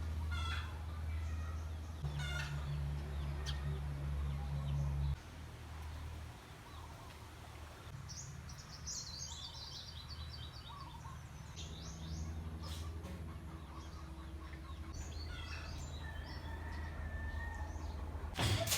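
Birds calling: a few short calls, then a fast chattering run of high notes about eight seconds in, over a steady low rumble.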